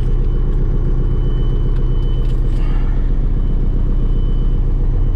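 Detroit Diesel engine of a Peterbilt 359 dump truck idling steadily while cold, warming up on a freezing morning.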